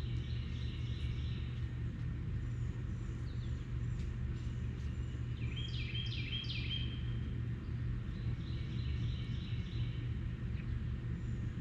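Short runs of high, falling chirps from birds, recurring every couple of seconds, over a steady low rumble.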